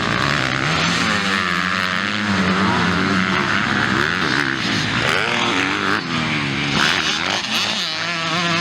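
Several motocross bikes racing, their engines revving up and down as they shift and take the track, overlapping one another.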